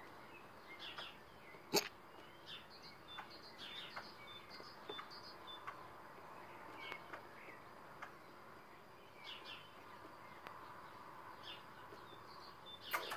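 Small birds chirping and calling in short, scattered notes, faint, with one sharp click a couple of seconds in.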